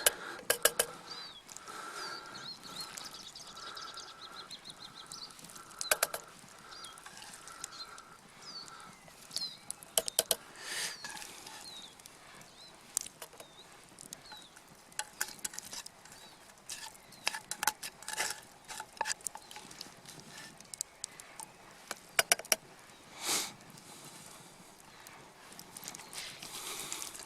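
Scattered clinks, knocks and scrapes of a metal spoon against camp pots as browned mince is scraped into a pot of gravy. A faint, steady high tone sounds through roughly the first nine seconds.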